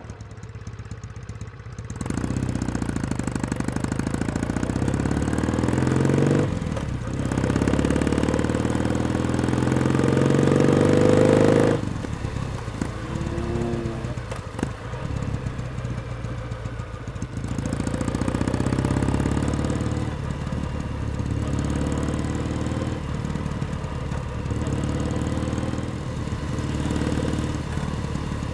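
Kawasaki W1 Special's vertical-twin engine under way. It is quieter for about two seconds, then accelerates with revs rising, shifts about six seconds in, and climbs again. Near twelve seconds the revs fall off suddenly and it settles into steady cruising.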